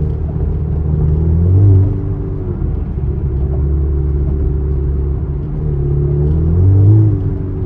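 Chevrolet Camaro engine and exhaust running hard at highway speed, the revs climbing and then dropping twice, about two seconds in and again near the end.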